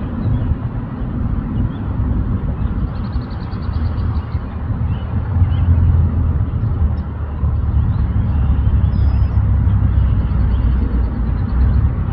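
Outdoor ambience: a steady low rumble, with faint high bird chirps and a short rapid trill about three seconds in.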